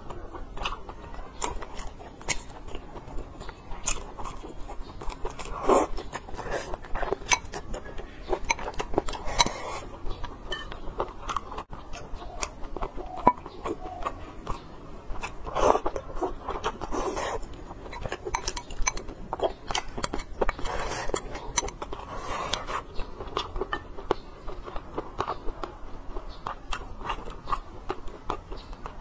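Close-miked chewing and biting of soft braised pork belly and braised eggs, with many short, sharp mouth clicks and an irregular rhythm of bites.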